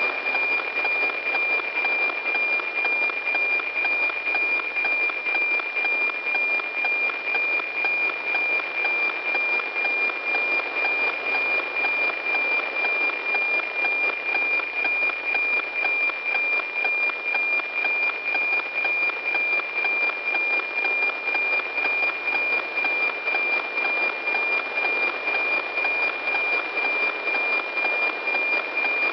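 NOAA-18 weather satellite's APT picture signal as received on a radio: a steady high whistle over hiss with an even tick-tock beat about twice a second, each beat one scanned line of the cloud image.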